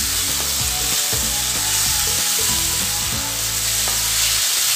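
Tomato, onion and ginger-garlic masala sizzling in oil in a non-stick pan, with a wooden spatula stirring and scraping across the pan; the freshly added tomatoes are being fried down.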